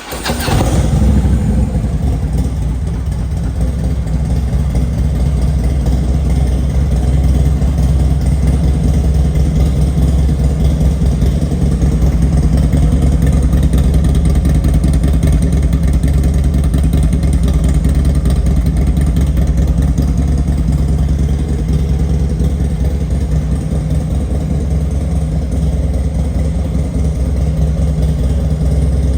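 Harley-Davidson Road Glide's Twin Cam 103 V-twin, fitted with a Stage 1 air cleaner and a 2-into-1 exhaust, firing up right at the start and then idling steadily.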